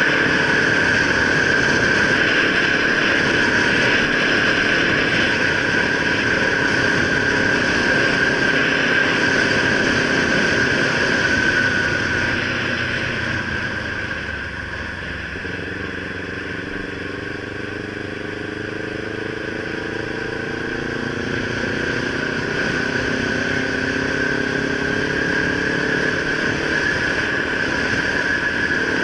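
Kawasaki Ninja 300's parallel-twin engine running under way, over a steady rush of wind and a constant high whine. About halfway through it quietens as the rider eases off, then the engine note climbs steadily as the bike accelerates again.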